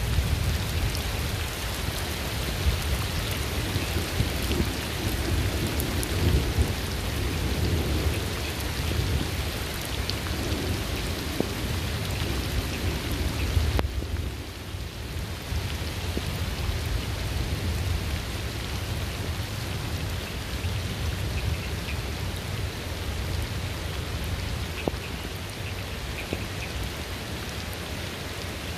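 Steady heavy rain with low rolling thunder, the rumble strongest in the first half and easing off later; the sound briefly drops in level about halfway through.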